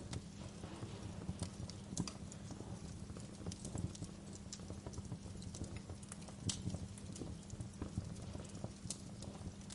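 Wood fire in a fireplace crackling: irregular sharp pops and snaps over a steady low rumble of the flames, with a few louder pops, one near the start and others around two, six and a half, and nine seconds in.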